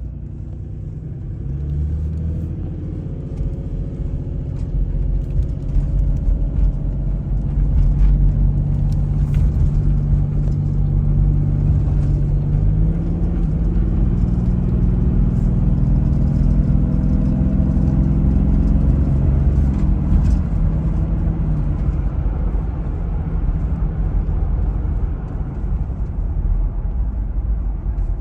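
Toyota Land Cruiser HDJ101's turbo-diesel straight-six accelerating on the road. Its engine note climbs, shifts about halfway through, then falls away and settles lower for the last third.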